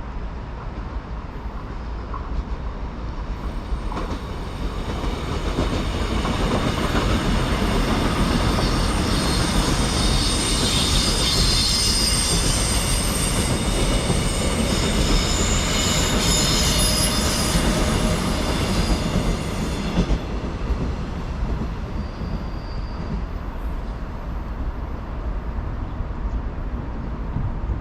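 A train passing on the rails, its wheels squealing with several high steady tones over the running noise. The sound builds from about four seconds in, and the squeal stops abruptly after about twenty seconds, leaving quieter running noise.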